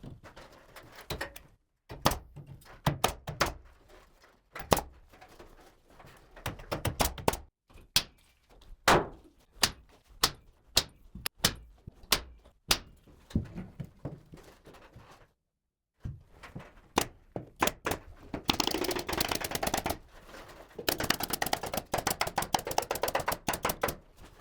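Carpentry on a wooden suspended ceiling frame: a long run of sharp, irregular knocks and shots, like a nail gun fixing boards and timber being knocked into place, turning into dense rapid strings of shots in the last few seconds.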